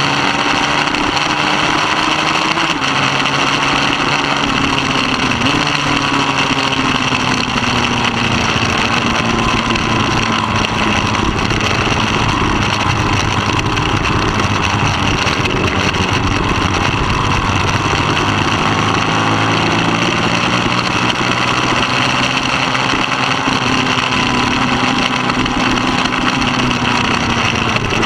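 Middleweight superbike engine running hard around a race track. Its pitch rises and falls with throttle and gear changes, with a step in pitch about three seconds in, over a steady rushing noise.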